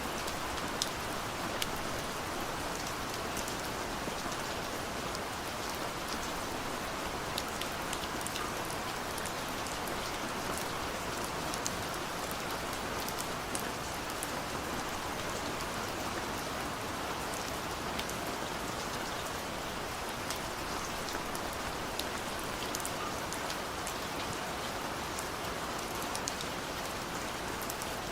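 Steady rain, a dense even hiss dotted with many separate drops ticking sharply.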